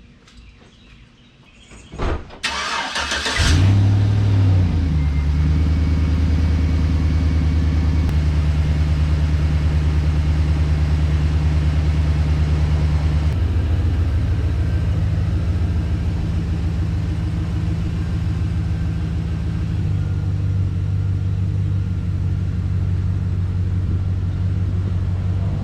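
Chevy Silverado pickup's engine cranked over and catching about three seconds in with a brief rev, then idling steadily. Its note shifts slightly twice as the truck is moved.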